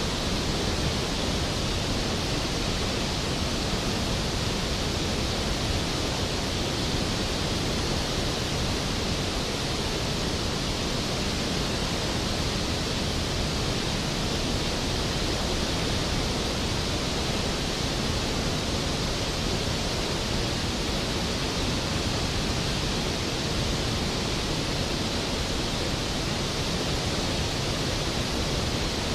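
Skógafoss waterfall's heavy falling water: a steady, powerful rush of noise with no breaks or changes.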